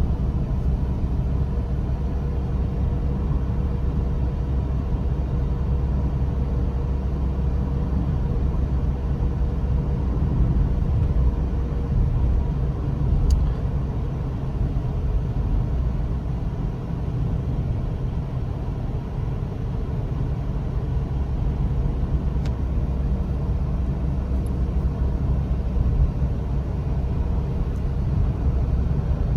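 Toyota Corolla driving: a steady low engine and road rumble with no change in pace, and two faint clicks partway through.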